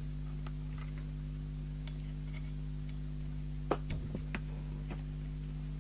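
Steady low electrical mains hum on a radio service bench, with scattered small clicks and taps of handling. A few sharper clicks come a little under four seconds in.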